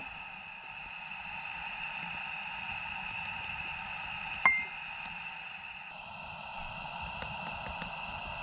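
One sharp clink with a brief ringing tone about four and a half seconds in, like a hard object being set down or tapped, over a steady background hiss.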